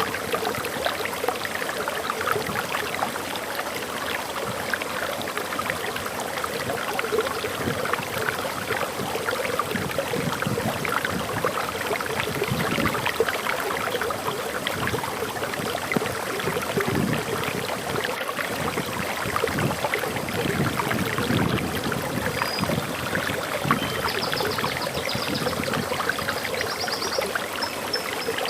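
Water of a forest waterfall splashing and rushing steadily. Faint short, high bird chirps come in during the last few seconds.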